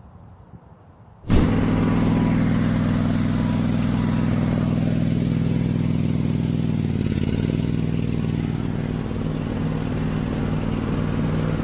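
A motor vehicle engine running steadily, starting abruptly a little over a second in; its pitch drops slightly about halfway through.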